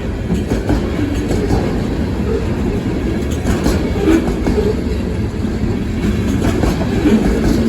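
Freight cars of a long train rolling past at about 30 to 40 mph: a steady, loud rumble with wheels clicking over the rail joints. The cars are rocking and wobbling on uneven track.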